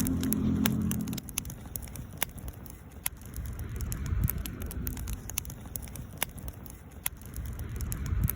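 Wood campfire crackling, with frequent sharp pops scattered irregularly over a low rumble that is heaviest in the first second.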